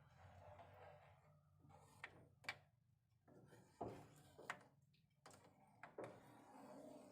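Near silence with a faint low hum and about half a dozen faint clicks and knocks, scattered from about two seconds in to near the end.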